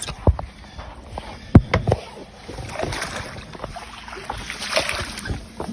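Water splashing with a few sharp knocks, the loudest about a second and a half in, as a baby nurse shark is handled and freed from litter.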